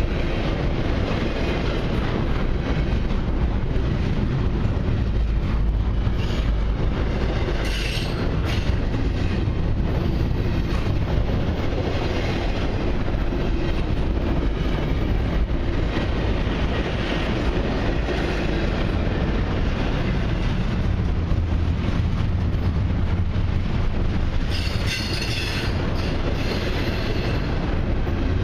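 Cars of a long intermodal freight train rolling past: a steady rumble and clatter of steel wheels on rail. There is a brief high wheel squeal about eight seconds in, and a longer one near the end.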